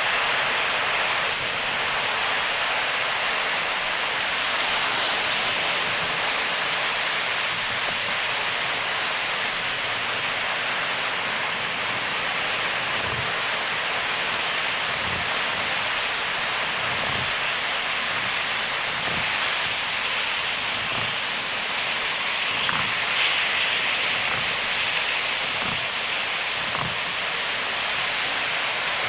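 Heavy rain on a moving car with tyres hissing through water on a wet expressway, a steady dense rush of noise. Soft low thumps come every couple of seconds through the second half.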